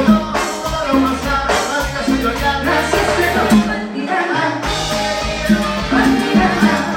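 Latin dance orchestra playing an instrumental passage, with a steady bass line under pitched instrument lines. The bass drops out briefly about four seconds in.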